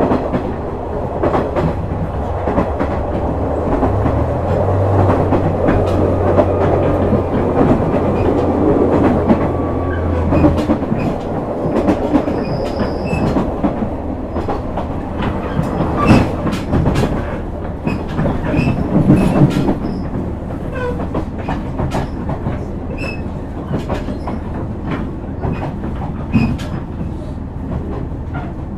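JR West KiHa 126 series diesel railcar running, its wheels clicking over rail joints. A steady low engine drone under power drops away about ten seconds in, and the car runs on with the joint clicks.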